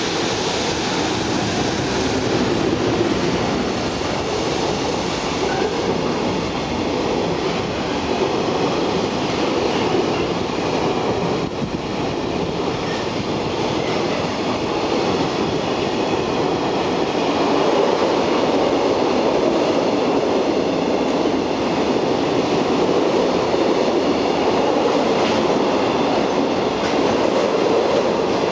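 A long freight train running through a station: an EF210 electric locomotive hauling empty container flat wagons and then tank wagons, with a continuous rumble and rattle of steel wheels on the rails. It grows louder about halfway through.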